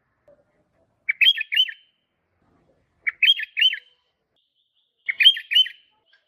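Sooty-headed bulbul (kutilang) singing: the same short phrase of four or five quick notes, repeated three times about every two seconds.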